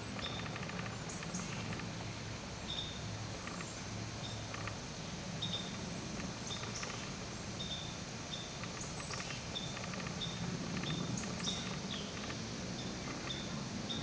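A small bird chirping over and over, short high chirps about once or twice a second, with an occasional higher, falling note, over a steady low hum.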